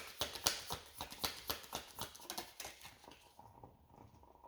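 A quick run of light taps or clicks, about four a second, that grows fainter and peters out after about three seconds.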